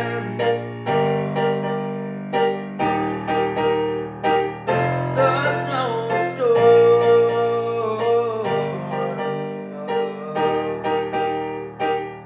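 Piano playing a slow passage of a song, a new low chord struck about every two seconds under repeated higher notes.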